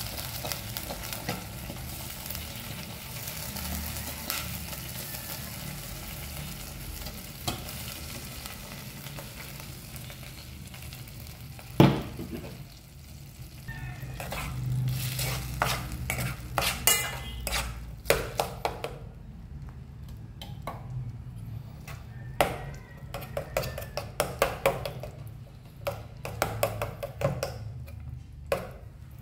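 Canned corned beef frying in a metal pot, sizzling steadily while a spoon stirs it, with a sharp clink of spoon on pot about twelve seconds in. In the second half the sizzle fades and the spoon scrapes and taps against the pot in quick clusters.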